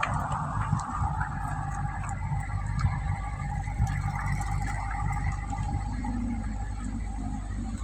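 Mercedes-Benz S500 Long's engine idling steadily, heard at the exhaust.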